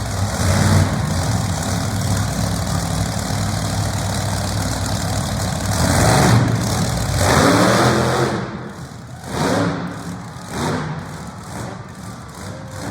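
A loud vehicle engine running with revving surges. About eight seconds in it falls to a lower level, broken by short bursts of throttle.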